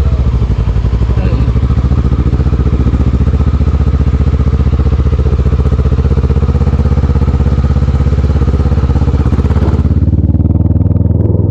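Motorcycle engine running steadily at an even pitch, heard from on the bike, with a hiss of wind and road noise that cuts off sharply near the end.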